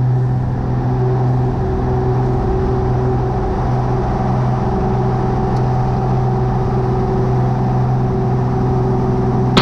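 Cessna 182 Skylane's piston engine and propeller at full takeoff power, a steady drone in the climb just after liftoff.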